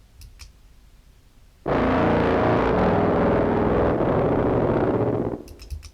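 One held note of contrabass clarinet through an octave pedal set to one and two octaves down, feeding a fuzz: a thick, buzzing, distorted tone. It starts suddenly about a second and a half in, holds steady for a few seconds, then stops.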